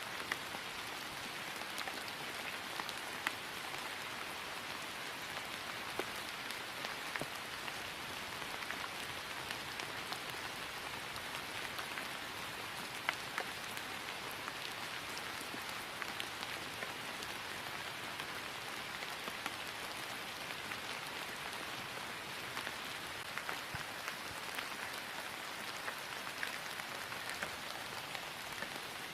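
Steady rain falling on grass, an even hiss with scattered individual drop ticks.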